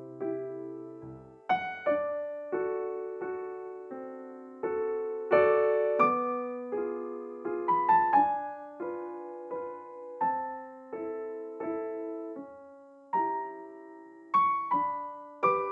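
Background music: a gentle solo piano piece, single notes and chords struck one after another and left to ring out.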